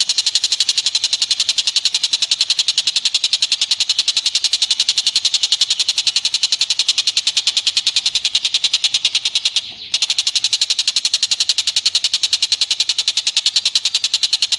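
Animal call: a loud, rapid, even train of sharp high chips, many a second, with one brief break about ten seconds in.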